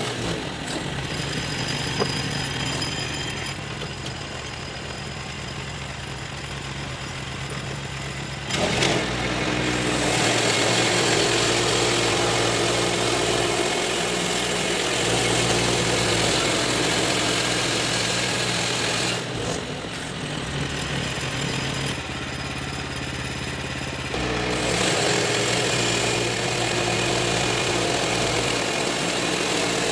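Engine-driven sawmill running steadily throughout. A louder, rushing stretch starts about nine seconds in and lasts about ten seconds, and another begins a little before the end, typical of the blade cutting through the birch.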